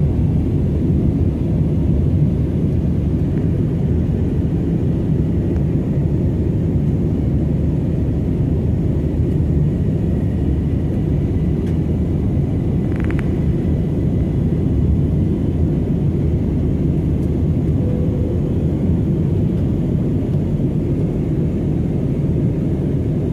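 Steady low rumble of an Airbus A320's jet engines and airflow heard inside the passenger cabin in flight after takeoff. A faint brief blip sounds about halfway through.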